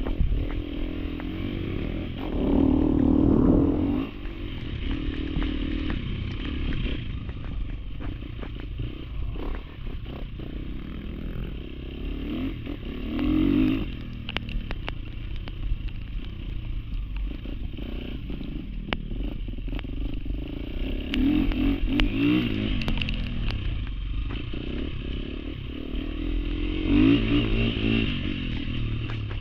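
Trail dirt bike engine running, rising in four rev bursts, with scattered clattering knocks.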